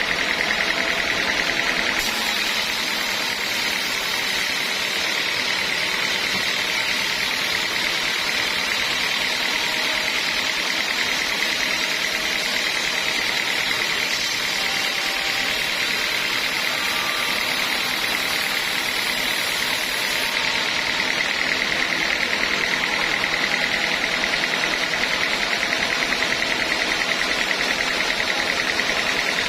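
Sawmill saw running steadily on teak wood, a constant machine sound with a higher hiss that joins about two seconds in and drops away about two-thirds of the way through.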